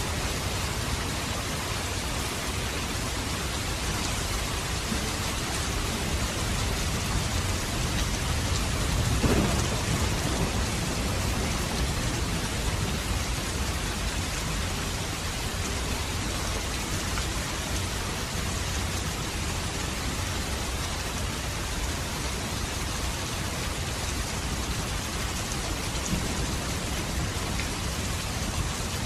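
Steady rain falling, with a low rumble of thunder swelling and fading about nine seconds in.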